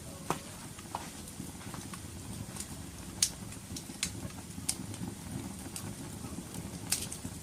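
Wood fire burning in a fireplace: a steady low rumble of flame with irregular sharp crackles and pops, about one a second, the loudest about three seconds in and near the end.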